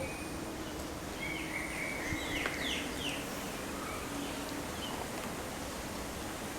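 A bird calling: a short run of clear whistled notes, several of them quick downward sweeps, over a steady low hum and background noise.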